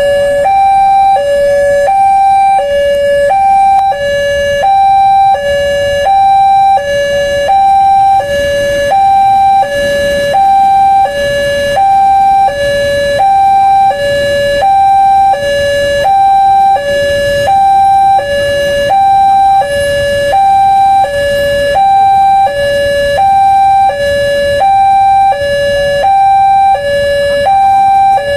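Electronic railway level-crossing warning alarm sounding a steady two-tone signal, a lower and a higher tone alternating about once a second, warning that a train is approaching and the barriers are closing.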